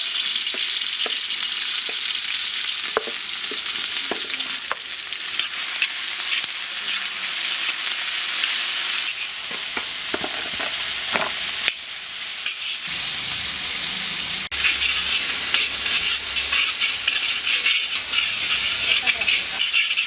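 Sliced onions frying in hot oil in a kadai: a steady sizzle, with the occasional scrape and knock of a spoon stirring them in the pan.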